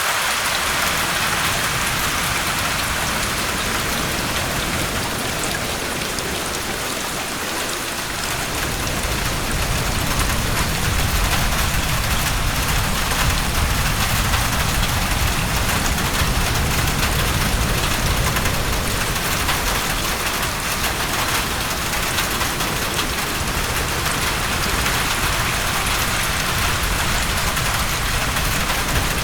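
Steady heavy rain hitting a roof, an even hiss. About eight seconds in, a low rumble of wind builds under it and stays.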